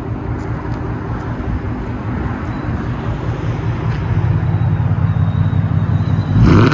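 2015 Ford Mustang GT's 5.0L V8 running through an X-pipe and straight-piped muffler-delete exhaust, rumbling at low speed as the car is backed up. The rumble grows louder, then a sharp rev rises near the end.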